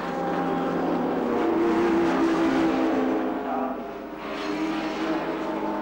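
Racing saloon cars passing one after another under power, their engines overlapping. The sound eases briefly about four seconds in as a gap opens, then the next cars come through.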